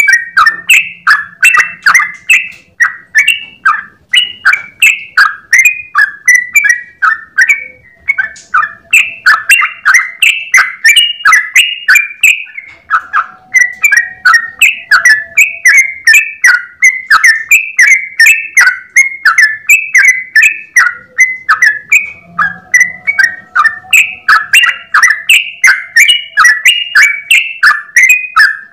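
Yellow-vented bulbul singing a long, rapid run of loud chirping notes, about four a second, with one short break about twelve seconds in.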